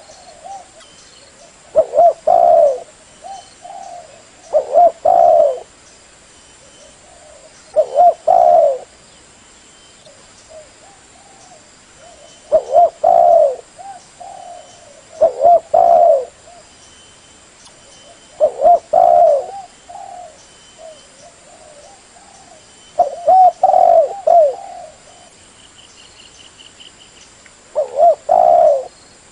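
Spotted dove (terkukur) cooing: a series of short, repeated multi-note coo phrases, about eight in all, each lasting about a second and coming every three to five seconds.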